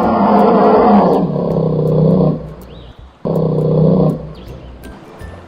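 Bear roaring twice: a long roar, then a shorter one about three seconds in.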